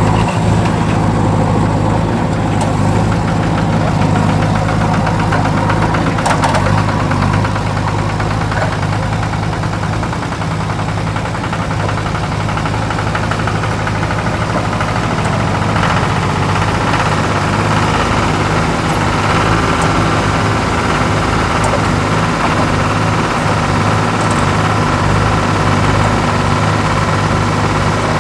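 A vehicle engine running steadily at an even, low speed, like a diesel at idle.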